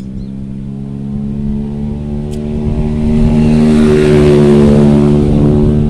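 A motor vehicle's engine passing close by, with a steady drone that grows louder to a peak about four seconds in and then begins to fade.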